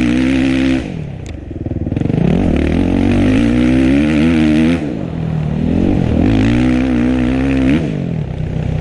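Dirt bike engine being ridden hard on a motocross track: it holds high revs, drops off sharply about a second in, climbs back up, and drops and climbs again near the middle and near the end, as the throttle is opened and shut.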